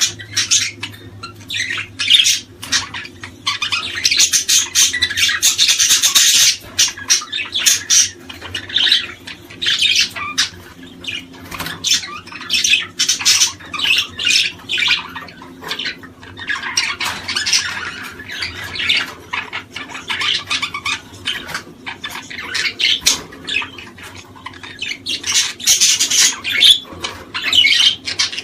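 Small birds chirping and squawking in a dense, busy chorus of rapid trills and sharp calls, swelling in louder clusters and easing off between them.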